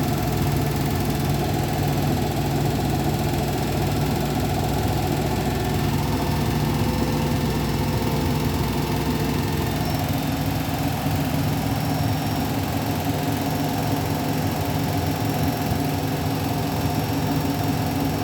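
Beko WTK104121W washing machine spinning its drum on the 1400 rpm final spin: a steady motor hum and drum rumble, its tone shifting about ten seconds in.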